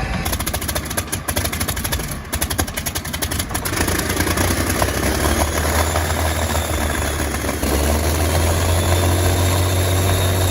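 Large vintage engine running, with distinct uneven firing knocks for the first few seconds, then settling into a steady low drone that grows louder about eight seconds in.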